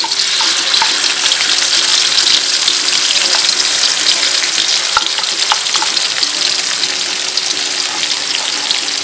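Wet ground spice paste sizzling and crackling in hot cooking oil in a wok as it is emptied in from a blender jar.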